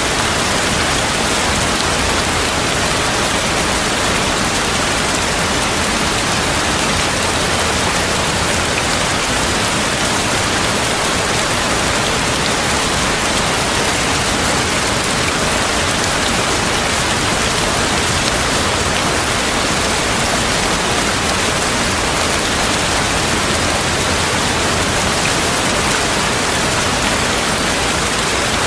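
Steady heavy rain falling without a break, an even hiss with no thunder heard.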